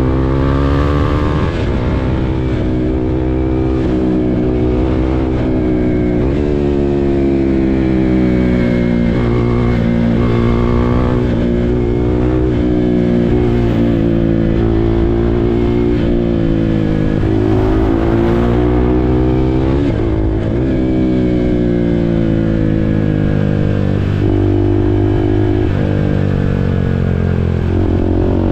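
KTM RC 390's single-cylinder engine under way, its pitch climbing and dropping back again and again as the bike accelerates through the gears and eases off.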